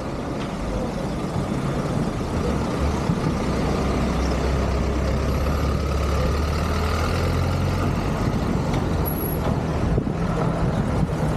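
A motor vehicle's engine running over steady road noise, its low rumble swelling about three seconds in and easing off after about nine seconds.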